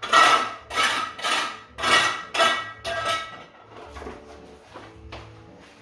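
Repeated scraping strokes, about two a second, of clearing up renovation debris by hand, dying away after about three seconds. Soft background music comes in near the end.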